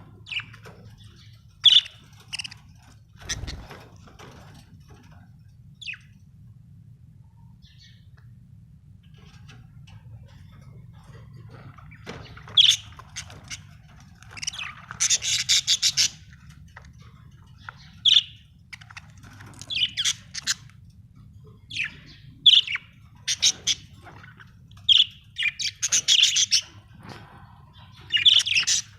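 Budgerigars chirping: short sharp chirps, sparse at first with a lull of several seconds, then coming faster with longer chattering runs. A faint steady low hum underneath.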